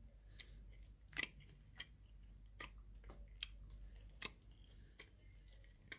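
A person chewing food close to a phone's microphone: faint mouth clicks and smacks at an irregular pace, the loudest a little over a second in.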